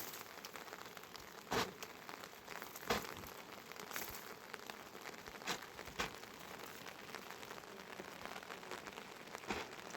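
Steady hiss of heavy rain, broken by about half a dozen short sharp cracks or knocks scattered through it.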